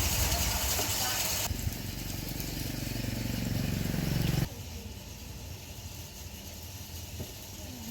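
A small engine running, its pitch rising steadily for a few seconds before the sound cuts off abruptly, leaving a quieter background with a few faint clicks.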